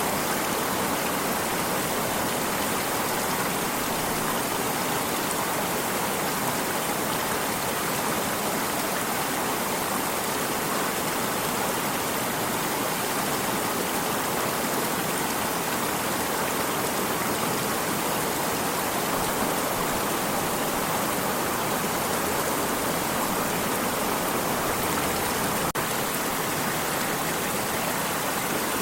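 Stream of water running steadily, an even rushing and babbling with no break.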